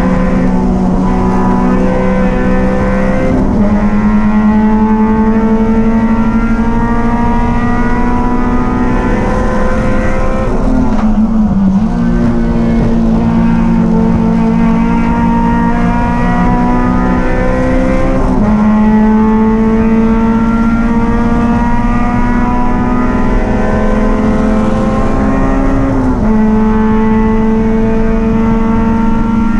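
A small race car's engine running hard and continuously as it laps the track. Its pitch creeps slowly up, then changes abruptly about every seven to eight seconds as it comes off and back onto the throttle.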